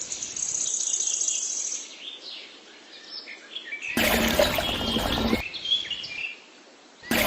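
Birds chirping, with short calls and a longer high trill near the start. About four seconds in, a louder sound clip cuts in abruptly for about a second and a half, then cuts off just as sharply.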